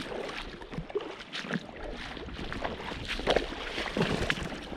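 Flowing river water, with scattered small splashes and knocks from handling at the water's edge.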